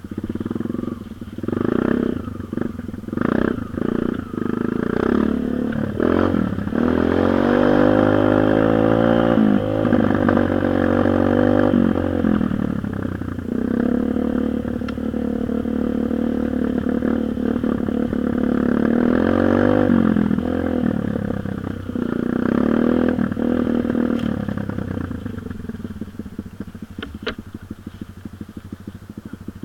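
Dirt bike engine. It gives a few short revs, then runs hard for a long stretch with its pitch rising and falling, and fades away near the end.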